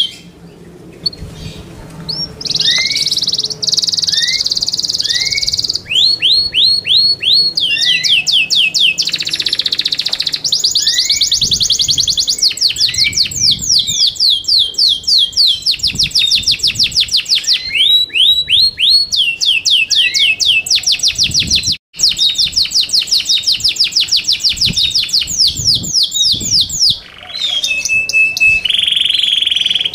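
Yorkshire canary singing: fast trills of repeated falling whistled notes, shifting from one roll to the next, with a short break a little past two-thirds through and a steady held note near the end.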